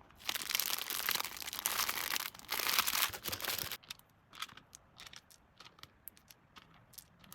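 Packaging crinkling as it is handled, continuously for about three and a half seconds, then a scattering of light clicks and taps.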